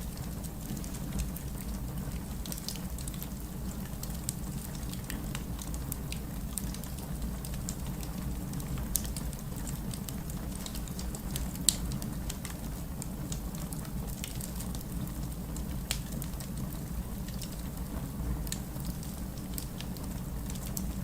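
Rain falling steadily alongside a crackling wood fire: a continuous low hiss and rumble of rain, with scattered sharp pops and crackles from the burning logs. One pop, about twelve seconds in, is louder than the rest.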